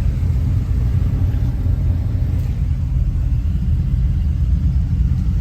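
Steady low rumble of a 2020 Dodge Challenger Scat Pack Widebody's 6.4-litre HEMI V8 cruising slowly in traffic.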